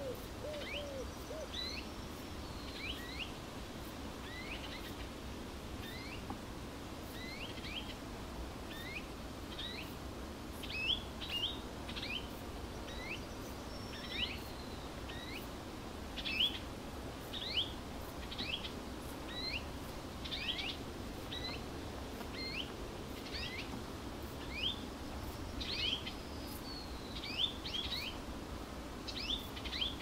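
Birds calling over and over with short, high chirps that slur downward, one or two a second, over a steady background hiss. A few low hoots sound in the first second or so.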